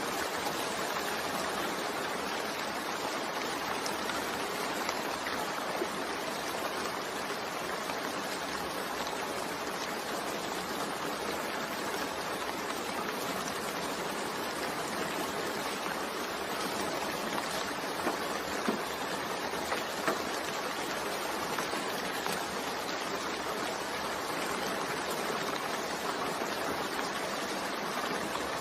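Steady rain falling, an even hiss of many drops, with a few louder single drop ticks about two-thirds of the way through.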